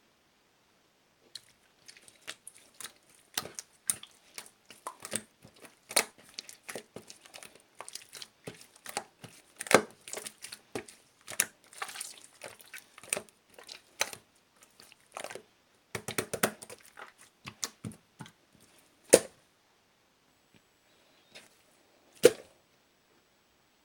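Clear slime being squeezed and stretched by hand, giving a quick, irregular run of sticky clicks and pops, several a second, that thins out near the end to a few single pops.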